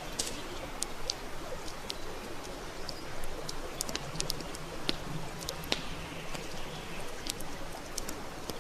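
Wood fire crackling: irregular sharp pops and snaps, several a second, over a steady soft hiss of burning.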